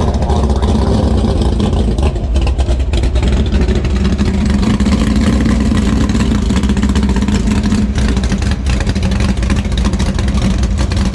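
Nitrous Ford Fairmont drag car's engine idling, a loud, steady, rough-edged running sound.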